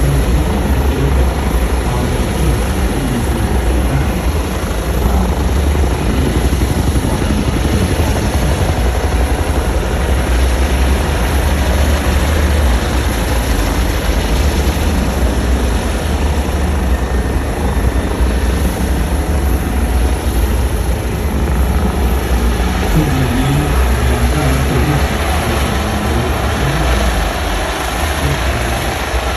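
Eurocopter EC645 military helicopter running steadily, its rotor and turbine engines loud and unbroken.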